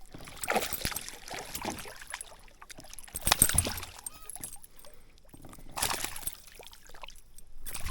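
Water splashing beside a kayak in about five short bursts, the loudest about three and a half seconds in, as a hooked bass is fought and brought alongside.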